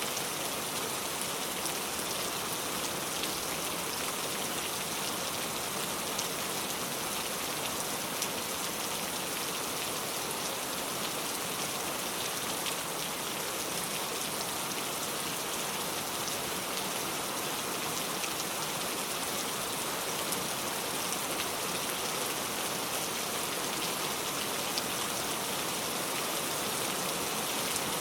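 Steady rain falling: an even hiss with light ticks of single drops scattered through it.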